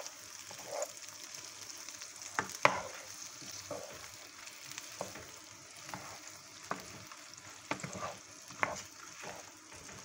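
Eggplant pieces sizzling in melted butter in a frying pan, a steady hiss, while a spatula stirs them, scraping and knocking against the pan about once a second; the loudest knock comes about two and a half seconds in.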